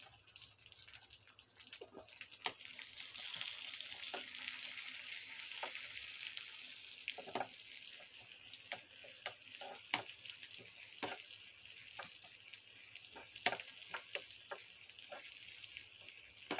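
Shallots, garlic, curry leaves and dried red chillies sizzling in hot oil in a small tempering pan as they are sautéed for a sambar tempering, with a steel spoon clicking and scraping against the pan while stirring.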